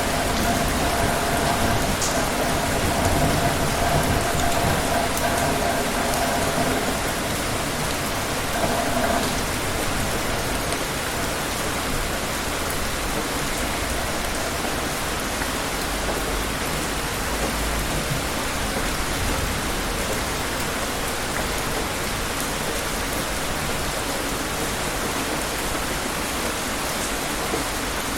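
Steady heavy rain falling, with a low rumble of distant thunder about two-thirds of the way in. A faint steady hum sits under the rain at first and fades out about a third of the way in.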